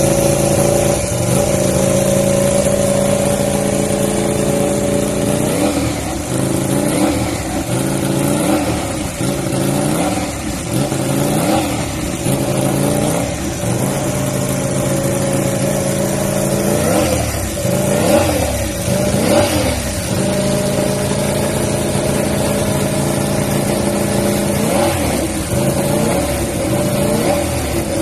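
A World Superbike four-cylinder racing motorcycle engine running at a steady, raised idle, then revved in a string of quick throttle blips, the pitch climbing and dropping each time. It settles back to idle for a few seconds, then takes a few more blips near the end.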